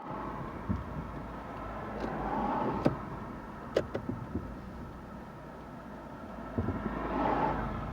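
Car on the move, heard from inside the cabin: a steady low rumble of engine and road noise that swells twice, with a few sharp clicks or knocks.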